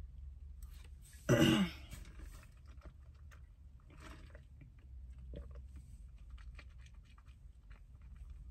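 A person chewing food close to the microphone: soft wet clicks and crunches, with a short vocal throat sound about a second in.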